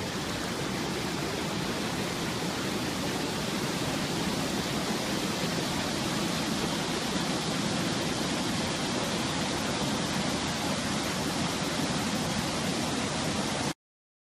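Fast-flowing, swollen floodwater rushing, a steady even roar that cuts off abruptly near the end.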